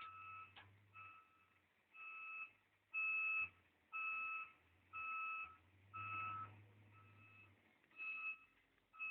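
Reversing alarm beeping steadily, a single-pitched beep about half a second long repeating roughly once a second, over a faint low hum.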